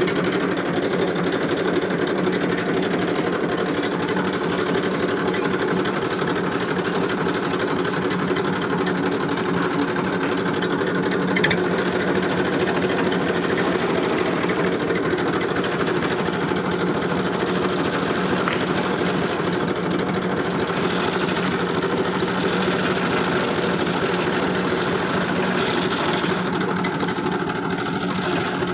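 Massey Ferguson tractor's diesel engine running steadily with a fast, even chatter, with one brief click about eleven seconds in.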